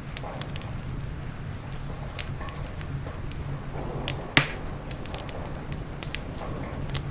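Wood fire crackling in a fireplace: scattered sharp snaps and pops, with one loud pop about four seconds in, over a low steady rumble.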